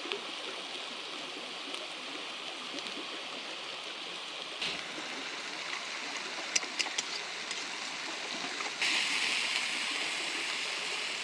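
Mountain stream running, a steady rush of water. A few sharp clicks come about six to seven seconds in, and the rush grows louder and brighter near the end.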